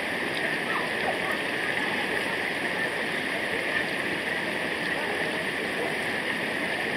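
Steady rushing of flowing water from a river or waterfall.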